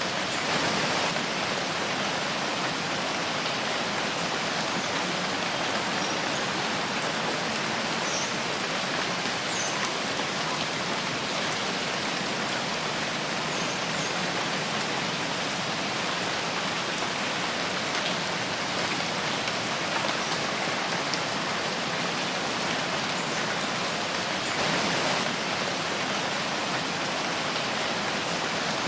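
Steady rain falling in a forest, an even hiss of drops with scattered individual drop ticks, swelling a little just after the start and again near the end.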